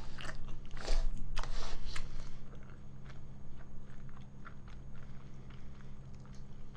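Close-miked chewing of thick instant jjajang noodles, wet mouth clicks and smacks. Loudest in the first two seconds, then softer, sparser chewing.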